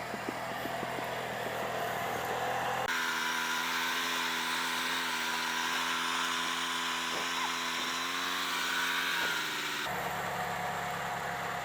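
Small gasoline engine of an off-road garden tractor running at a steady speed. The sound changes abruptly about three seconds in and again near the end.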